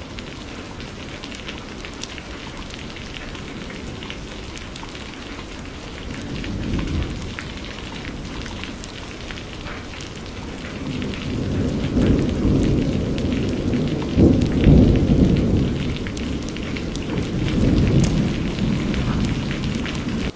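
Steady rain with many small drop ticks, and thunder rolling in low: a short rumble about a third of the way in, then a long roll through the second half, loudest a little past the middle, before easing off.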